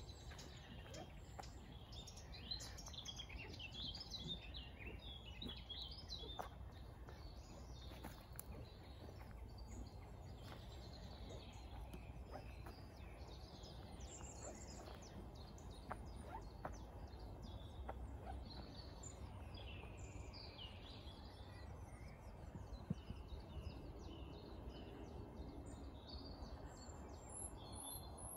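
Small songbirds singing and calling, with several warbled and whistled phrases throughout, faint over a steady low rumble of background noise.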